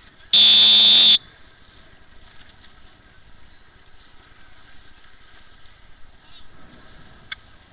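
One loud, steady signal-horn blast of under a second from the umpire boat, the single long sound that goes with the green-and-white flag: no penalty after an incident between two boats. A short sharp click comes near the end.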